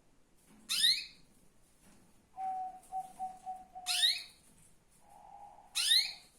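Female canary calling: three short, bright, rising chirps a couple of seconds apart. Between them comes a lower, steady whistled tone, once broken into a few short pulses and once held for about a second.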